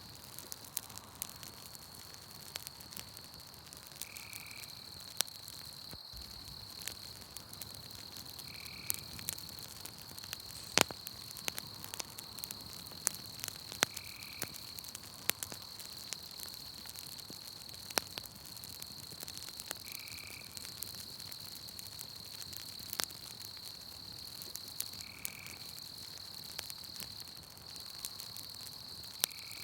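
Campfire crackling with scattered sharp pops, over a steady high-pitched insect trill. A short call repeats about every five seconds.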